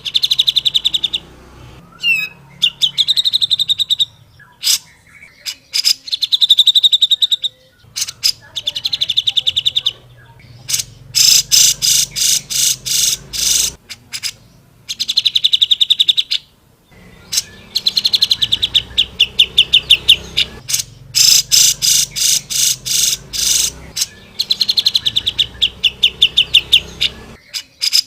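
Cucak jenggot (grey-cheeked bulbul) singing: loud, high bursts of rapid rattling trills, each one to two seconds long, repeated with short gaps.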